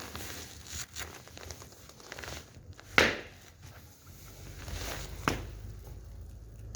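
Wood fire crackling with scattered small clicks, and one sharp pop about three seconds in and a smaller one a couple of seconds later.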